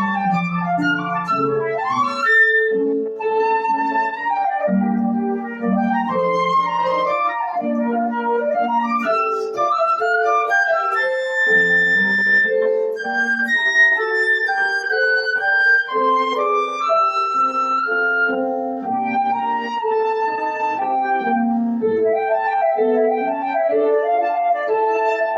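Flute playing a slow, legato melody of held notes over a piano accompaniment.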